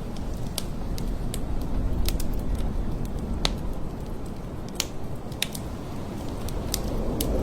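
Heavy blizzard wind blowing with a steady low rumble, growing stronger near the end, with irregular sharp ticks and crackles scattered through it, a few a second.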